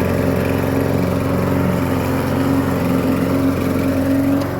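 Weibang SVP50 petrol lawnmower engine running steadily at a constant speed.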